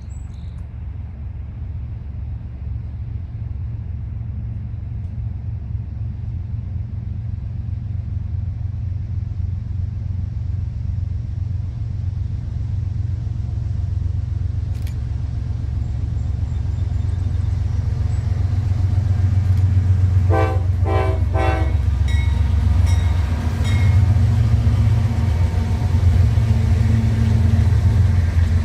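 Diesel locomotive rumble growing steadily louder as the train approaches, with three short horn blasts close together about two-thirds of the way through.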